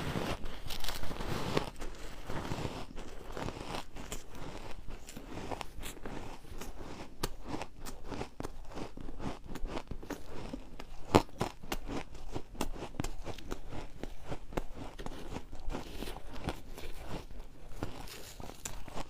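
Refrozen ice being bitten and chewed: a dense, continuous run of crisp crunches and cracks. It is louder in the first second or two, with one sharp, loud crack about eleven seconds in.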